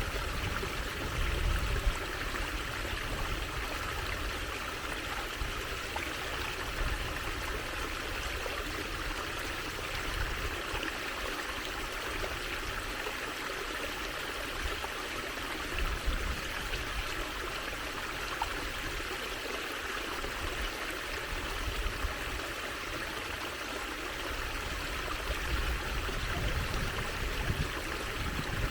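Water trickling and running steadily over stones in a small stream.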